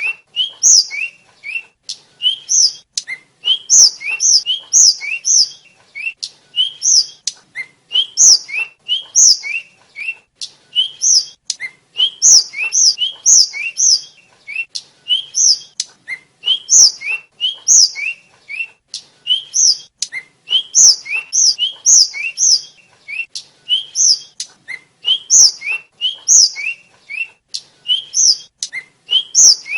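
Flycatcher of the kind sold as tledekan/sikatan, singing a continuous run of short, sharp, rising whistled chirps, several a second.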